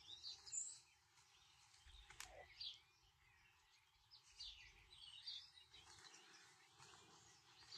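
Near silence outdoors, with faint birds chirping now and then.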